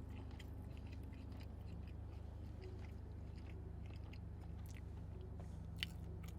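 Close-up chewing of soft breakfast food, with many small wet mouth clicks over a steady low hum. One sharper click comes near the end.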